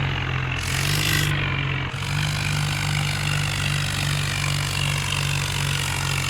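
Diesel engine of a Farmtrac 60 tractor running steadily at working revs while towing, its speed rising slightly about half a second in and then holding.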